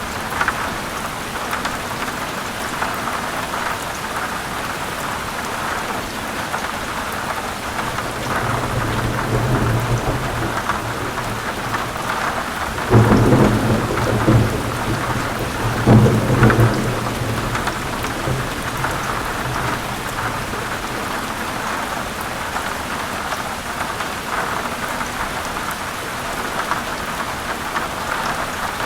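Steady heavy rain, with rolling thunder building about a third of the way in. Two loud thunder peaks come around the middle, then the rumble fades back under the rain.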